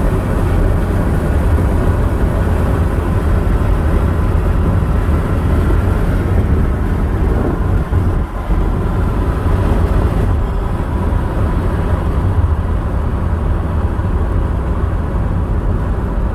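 Road noise inside a moving car: a steady low rumble of tyres and engine with a faint whine, dipping briefly about halfway through.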